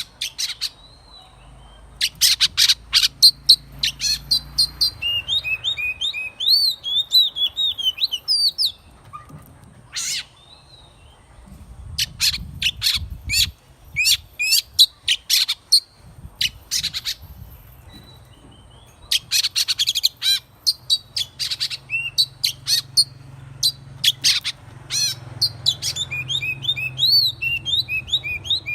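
Oriental magpie-robin singing: runs of sharp clicking notes alternating with short, high whistled phrases that glide up and down, in repeated bouts with brief pauses between them.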